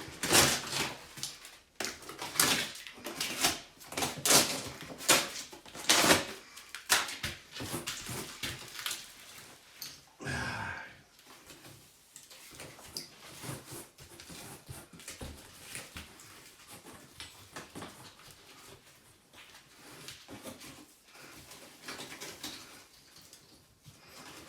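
Demolition work on an internal wall: a quick run of sharp knocks and cracks as the wall material is broken and pulled away, with a longer scrape about ten seconds in, then scattered lighter clicks and knocks.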